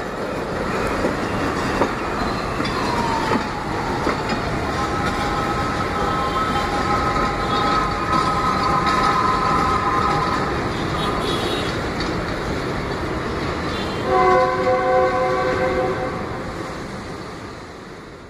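Passenger train running past and away: a steady rumble and clatter of coaches on the track, with a long, steady high tone from about five to twelve seconds in. A horn chord sounds at about fourteen seconds, the loudest moment, and the sound then fades out.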